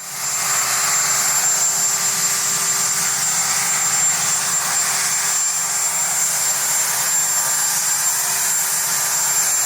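Helicopter turbine engines running steadily: a constant high whine over an even rushing rumble, typical of Marine One turning over before lift-off.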